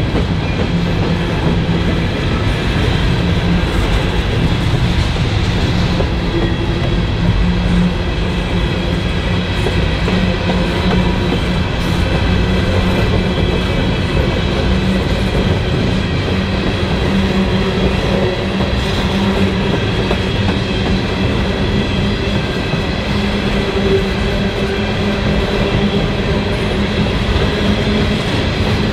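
Norfolk Southern coal train's hopper cars rolling past: a steady rumble and clatter of steel wheels on rail, with several thin steady squealing tones held above it.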